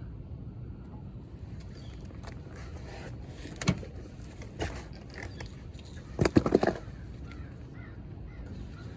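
A bird calling harshly several times in quick succession about six seconds in, over a steady low background. A single sharp click comes a little before the middle.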